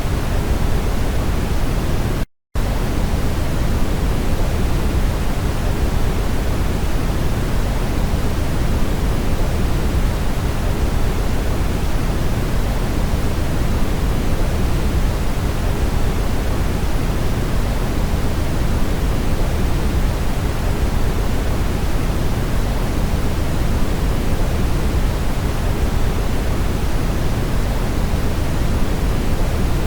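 Brown noise: a steady, deep hiss weighted toward the low end, cutting out completely for a split second about two seconds in.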